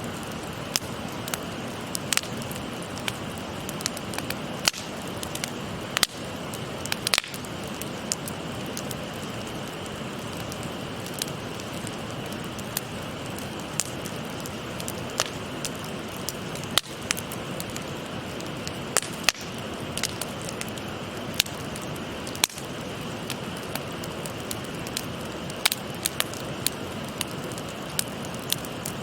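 Wood fire crackling, with irregular sharp pops, over the steady rush of a shallow river.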